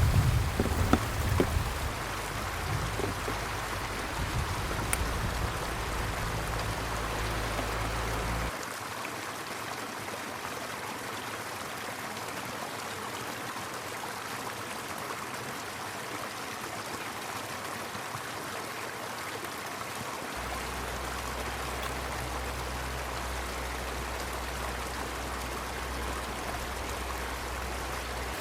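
Glacial meltwater river flowing steadily, an even rush of water. A low rumble underneath cuts out suddenly about a third of the way in and comes back later.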